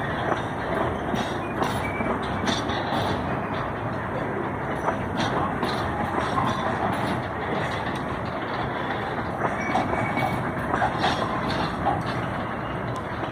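A freight train's container wagons rolling past: a steady rolling rumble of steel wheels on rail, with scattered clanks and brief squeaks.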